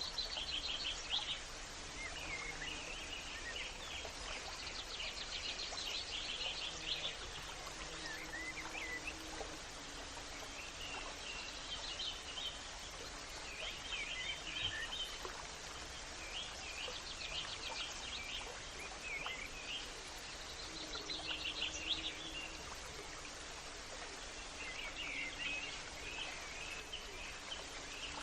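Songbirds singing outdoors, short trilled and chirping phrases coming every few seconds, over a steady background hiss of outdoor ambience.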